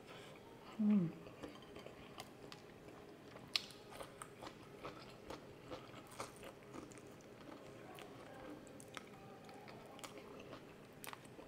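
Close-up wet chewing of tender braised pork leg, with many small mouth smacks and clicks. A short low hum that falls in pitch about a second in is the loudest sound.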